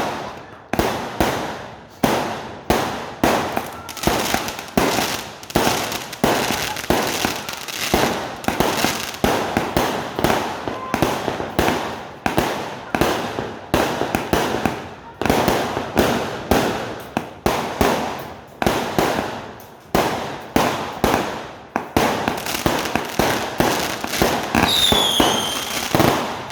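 A 39-shot fireworks cake firing its tubes one after another, about one to two sharp shots a second, each fading away before the next.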